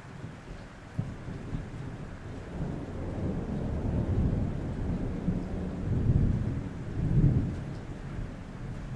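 Rolling thunder over rain on a roof: a low rumble starts about a second in, swells to several loud peaks in the middle and toward the end, then eases off.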